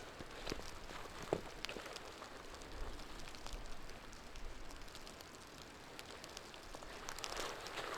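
Snow falling and lightly pattering, with scattered irregular ticks over a faint steady hiss. Near the end a denser rustling noise builds up.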